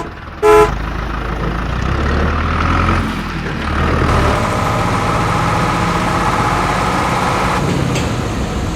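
Truck engine running with a steady low rumble, after a short horn honk about half a second in.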